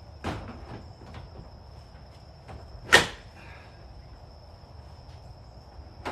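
Knocks and clunks of objects being handled and set down while a garage is cleared out, with one sharp loud knock about three seconds in. A faint steady high-pitched tone runs underneath.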